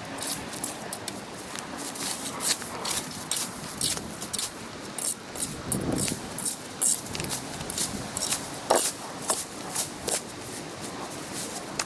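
An irregular series of short scraping, rustling strokes, some sharper and louder than others, with a fuller rustle about halfway through.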